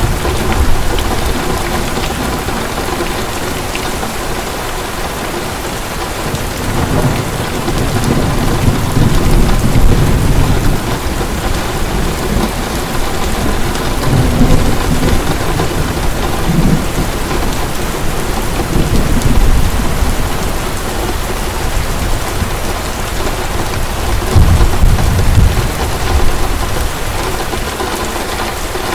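Heavy rain pouring steadily, with deep rolls of thunder swelling and fading several times.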